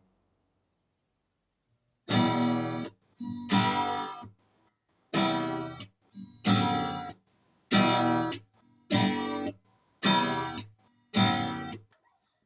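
Acoustic guitar strumming single chords, about eight of them. Each one rings briefly and is then damped, after about two seconds of silence at the start.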